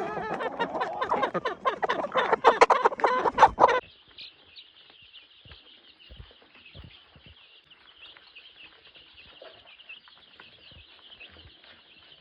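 Domestic chickens clucking and squawking loudly in a dense chorus, cutting off abruptly about four seconds in. A faint, steady high-pitched sound and a few soft knocks follow.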